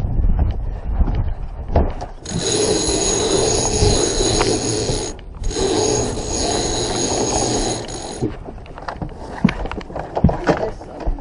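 Sailboat halyard gear whirring with a steady high whine as the sail is hoisted, in two long hauls of about three seconds each with a short break between. A few knocks of rigging and deck follow.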